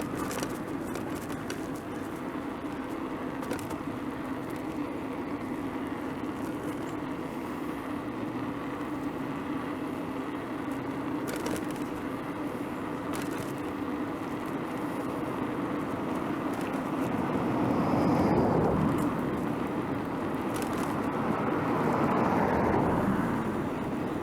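Road traffic heard from a moving bicycle: a steady rumble of road and wind noise, with two louder swells about 18 and 22 seconds in as motor vehicles pass, and a few light clicks.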